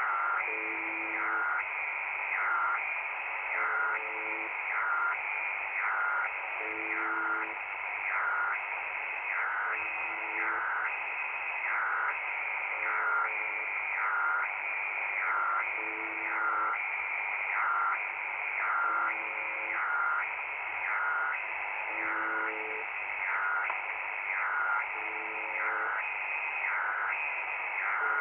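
Shortwave radio receiving the UVB-76 frequency: steady static hiss with a repeating warbling tone, about once a second, and short low tone blips every few seconds.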